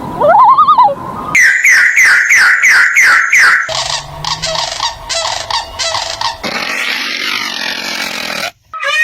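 A sequence of bird-like animal calls: a warbling rising and falling call, then a run of quick falling calls at about three a second, then harsher raspy, pulsing calls that cut off suddenly near the end.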